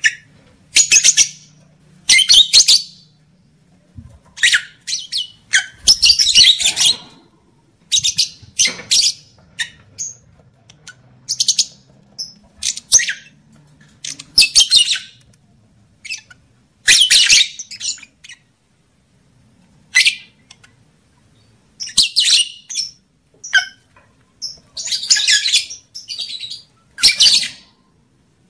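Lovebirds calling in short, shrill, high-pitched bursts, coming irregularly about once a second; these are the calls used as a lure to bring lovebirds into breeding condition.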